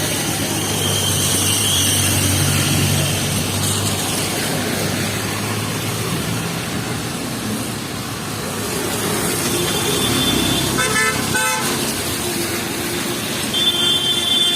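City street traffic in heavy rain: a steady hiss of rain and tyres with a vehicle engine passing early on, then car horns honking twice in the second half, the last blast the loudest.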